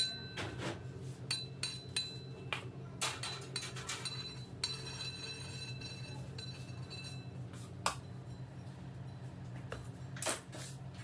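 Metal cake-decorating tools and utensils clinking against each other and against hard surfaces, a string of sharp clinks, some leaving a high metallic ring that lasts a second or two, over a steady low hum.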